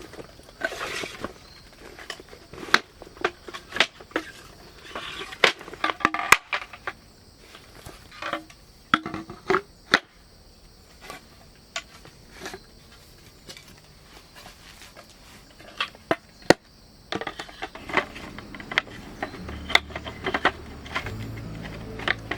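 Irregular clicks, knocks and short crunches, as of objects being handled and set down. Low background music comes in near the end.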